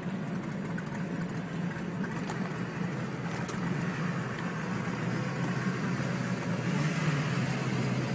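An amphibious car's engine running steadily at low revs, a low hum whose pitch rises slightly about seven seconds in.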